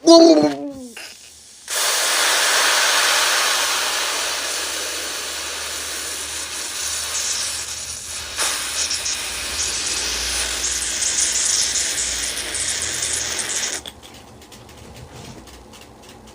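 A short, loud squeal falling in pitch. Then a loud, steady hiss starts suddenly and runs for about twelve seconds before cutting off abruptly.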